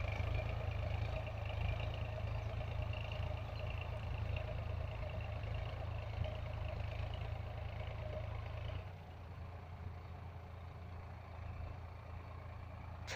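Solis tractor's diesel engine running steadily with a low hum, becoming quieter about nine seconds in.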